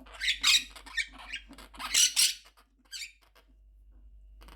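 Quaker parrot (monk parakeet) giving harsh, scratchy screeches in two loud bursts, with a shorter, fainter one about three seconds in: the calls of an angry, agitated bird.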